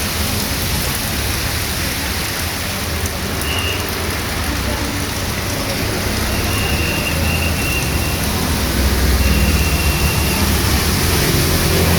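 Heavy rain pouring steadily onto the street and surfaces. A low rumble swells in the second half, and a faint high tone sounds briefly a few times.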